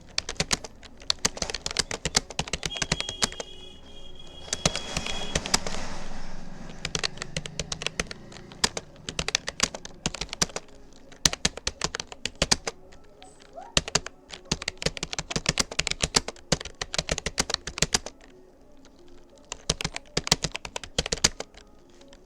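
Fast touch-typing on a Rapoo computer keyboard: rapid key clicks in quick bursts with short pauses between them. A few seconds in, a steady high tone sounds for about three seconds.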